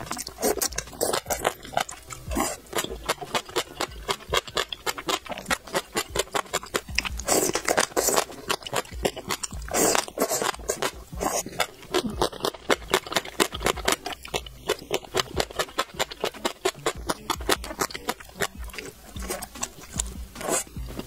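Close-miked eating: rapid crisp crunching as gongcai (dried celtuce stems) and noodles are chewed, several crunches a second, with a couple of longer slurps about midway.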